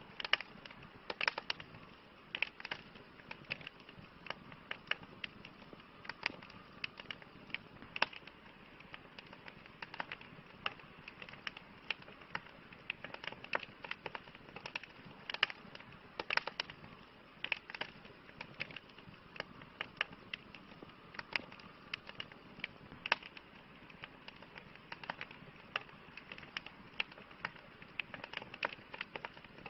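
Wood campfire crackling: irregular sharp pops and snaps, a few of them louder, over a steady soft hiss.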